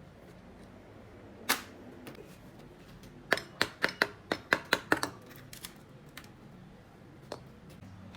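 Hand tool work on engine parts: one sharp knock, then a quick run of about eight sharp taps or clicks over two seconds, and a last faint tap near the end.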